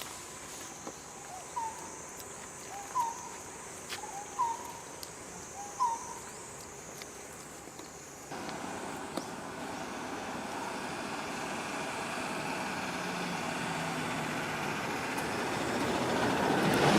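A bird gives four short calls about a second and a half apart over a steady high insect drone. About eight seconds in, this gives way to a broad rushing noise of an approaching vehicle that grows steadily louder until it cuts off.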